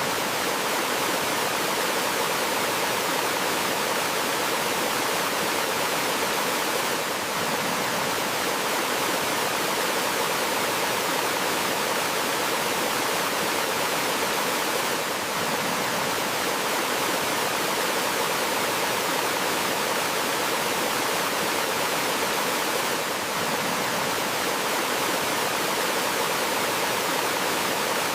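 Steady rush of water from a small forest waterfall and stream, an even hiss with a slight dip in level about every eight seconds.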